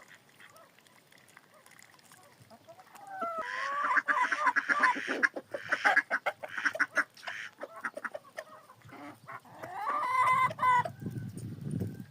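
Chickens clucking and cackling, loudest from about three to seven seconds in and again around ten seconds in.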